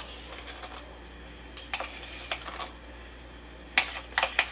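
A kitchen utensil clinking against a bowl several times, the strongest clinks coming near the end.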